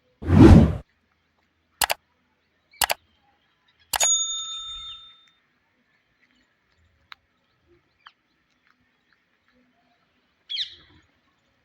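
A short burst of noise, then a few sharp clicks and a single metallic ding that rings for about a second, like a small bell being struck. Two faint ticks follow, and near the end a parrot gives one short chirp.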